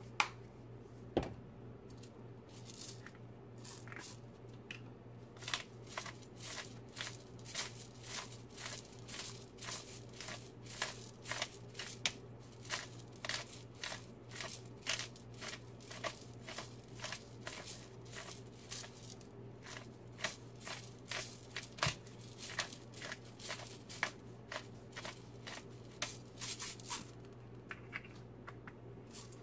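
Rapid sharp clicks and snips from kitchen work, two or three a second with a couple of short lulls, over a steady low hum.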